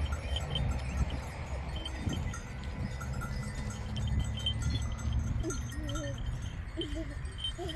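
Sheep or goats bleating with a few short wavering calls in the second half, over a steady low rumble. Small bells tinkle repeatedly throughout.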